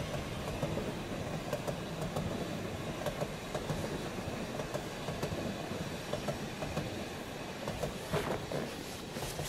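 Rhaetian Railway electric passenger train running past on the metre-gauge line, its rolling rumble slowly fading as the last cars go by, with a couple of sharper knocks near the end.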